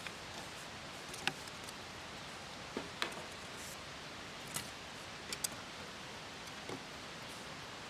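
Wood campfire crackling: sharp pops and snaps at irregular intervals, a few close together, over a steady soft hiss.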